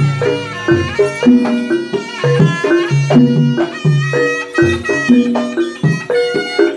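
Live Javanese jaranan ensemble music: a reedy shawm-like wind instrument (terompet) playing a sustained, ornamented melody over a steady beat of drums and percussion.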